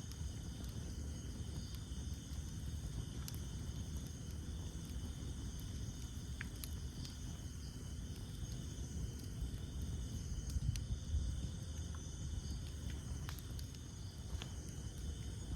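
Campfire burning wood with a low, steady rumble of flames and scattered sharp crackles and pops every few seconds. A steady high insect trilling runs underneath.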